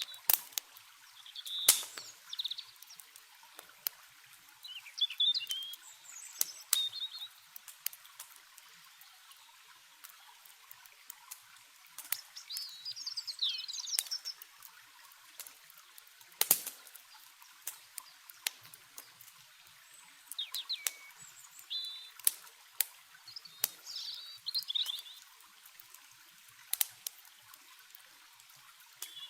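Small birds chirping in short bursts of song, with sharp pops and crackles of a wood campfire and a faint steady rush of flowing water underneath. The loudest single event is a pop about halfway through.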